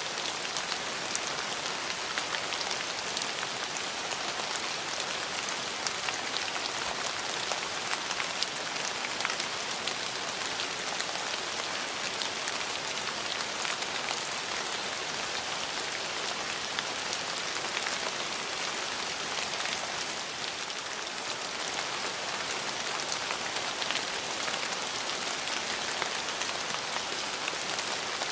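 Steady rain falling, a continuous even hiss with many distinct drops ticking on hard surfaces.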